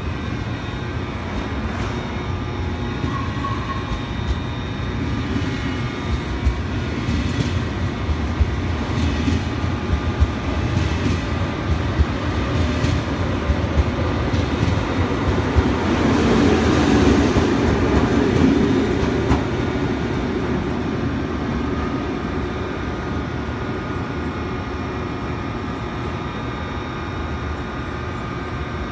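KTX high-speed electric train pulling out of the platform and running past close by: a steady rumble with a run of sharp clicks from the wheels. It is loudest a little past halfway, as the last cars go by, then fades as the train leaves.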